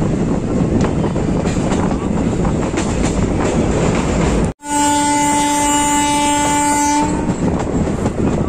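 Running noise of a passenger train at speed, a steady rumble. About halfway through it cuts out for a moment and a train horn sounds, one steady note held for about two and a half seconds, before the running noise comes back.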